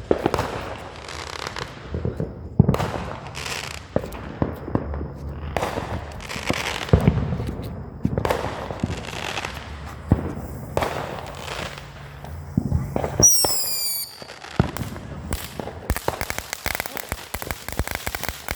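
Consumer fireworks going off: an irregular string of sharp pops and bangs, a high whistle falling in pitch about 13 seconds in, then a dense, rapid crackle near the end.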